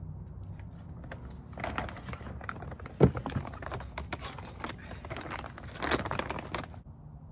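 Handling of a plastic bag of bird seed: irregular crinkling and rustling, with the seed shifting inside, and one sharp knock about three seconds in.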